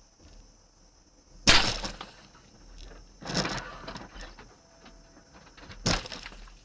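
Car crash heard from inside the vehicle: a loud impact with breaking glass about one and a half seconds in, then two more impacts, one near the middle and one near the end.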